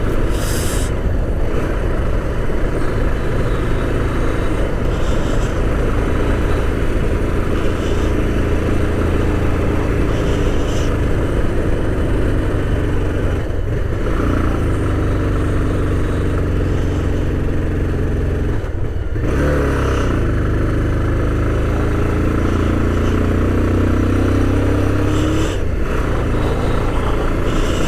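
Motorcycle engine running under way, with heavy wind rumble on the microphone. The engine's pitch rises and falls with the throttle, dipping briefly a couple of times and climbing steadily through the last several seconds.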